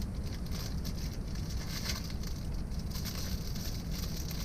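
Steady low background rumble with faint, scattered crackling.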